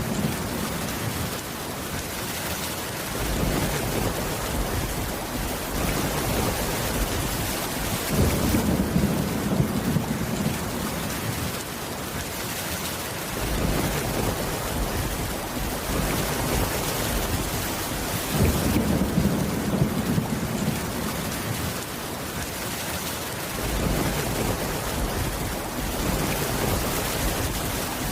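Steady heavy rain falling, with low rumbles of thunder that swell and fade again several times.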